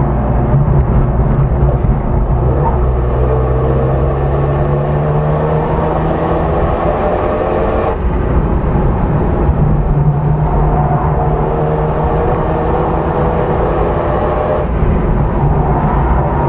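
Renault Mégane RS's turbocharged four-cylinder engine under hard acceleration, heard from inside the cabin: revs climb steadily through each gear, with an upshift about eight seconds in and another near the end, over steady tyre and wind noise.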